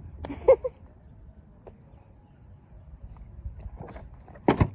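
Insects, crickets by the sound, chirring steadily at a high pitch, with a brief short sound about half a second in and a few sharp knocks near the end.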